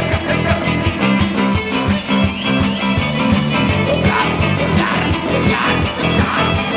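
A rock band playing live, with a steady drum beat under bass and guitar.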